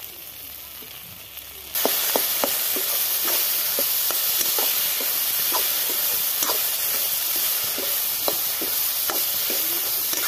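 Okra and spice paste frying in a kadai, stirred with a metal spatula: a steady sizzle with many short scrapes and clicks of the spatula against the pan. The sizzle comes in suddenly about two seconds in.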